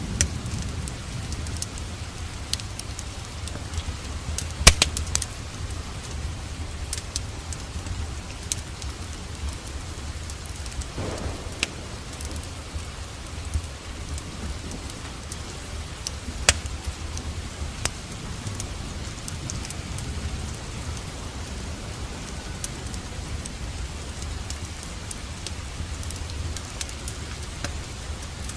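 Rain falling steadily together with a wood fire crackling in a fireplace: a constant low rumble and hiss with scattered sharp pops, the loudest about five seconds in and again about sixteen seconds in.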